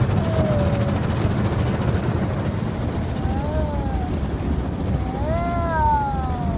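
Steady loud rumble and water spray of an automatic car wash, heard from inside the car. Two short rising-then-falling vocal sounds from a young child come in the second half.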